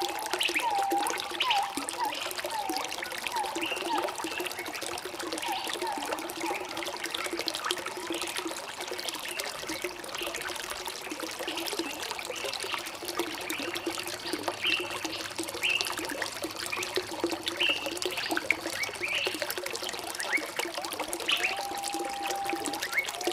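Water trickling and flowing steadily, with small birds chirping in short, repeated calls on and off throughout.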